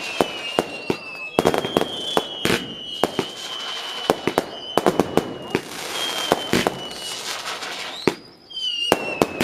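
Fireworks display: a rapid series of bangs and crackles from bursting shells, with high whistles gliding in pitch over them. A brief lull comes about eight seconds in, then more bangs and a whistle.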